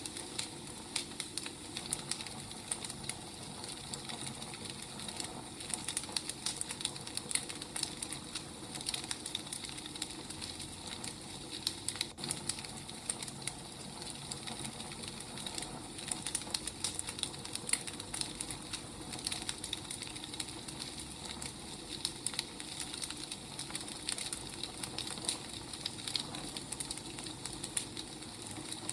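Wood fire crackling: a dense, irregular run of small pops and snaps over a steady hiss, with a few sharper snaps along the way.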